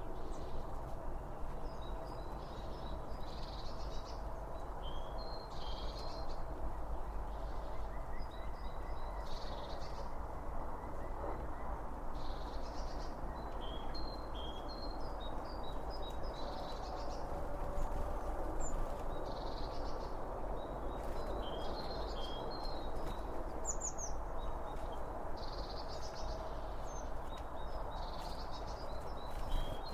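Small songbirds chirping in short repeated calls every second or two, over a steady rushing background noise.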